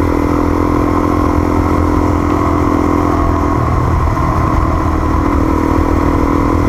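Off-road motorcycle engine running while riding along a dirt track. The throttle eases off about halfway through and picks up again a couple of seconds later.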